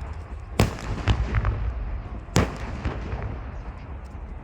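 Gas cylinders on a burning truck exploding one after another: sharp bangs, loudest about half a second in and again near the middle, with smaller pops between them.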